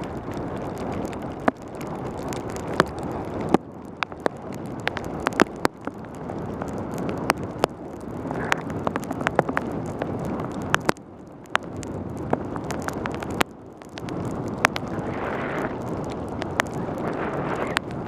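Wind rushing over a helmet-mounted camera's microphone and wet tyres hissing on a rain-soaked road as a mountain bike descends fast in pouring rain, with many sharp clicks and knocks throughout. The rush drops away briefly three times.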